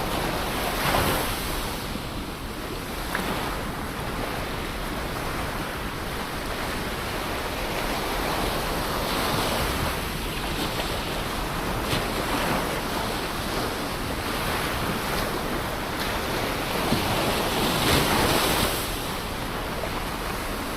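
Ocean waves washing on a shore: a steady rush of surf that swells as waves break, about four times, the strongest near the end, with some wind on the microphone.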